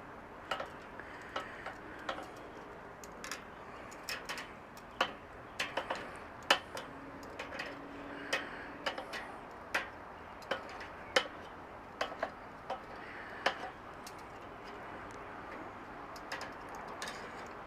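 Metal grill tongs clicking and tapping against a Weber kettle's cooking grate as chicken drumsticks are turned over one by one: irregular sharp clicks, about one or two a second, over a faint hiss.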